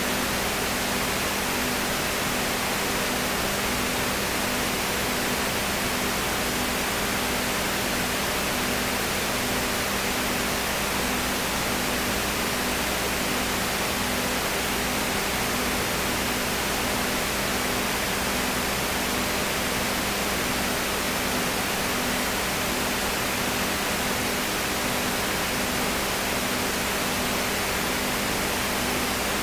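Steady, unchanging hiss with a faint low hum running under it.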